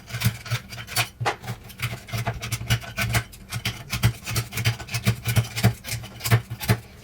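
Plastic keyboard keys and their metal springs being handled on a bench, with a run of irregular small clicks, taps and scrapes.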